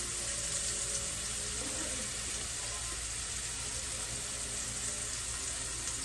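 Meat sizzling steadily in hot frying grease in a pan, an even hiss throughout.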